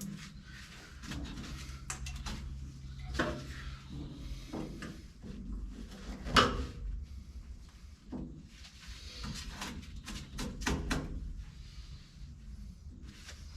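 Scattered clicks and knocks of hand tools working on a car door's metal and window hardware, with one sharp knock about six seconds in and a quick run of clicks around ten seconds in.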